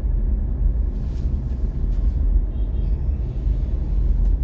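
Steady low rumble of a car driving in traffic, with a faint hiss rising and falling twice and a single sharp click near the end.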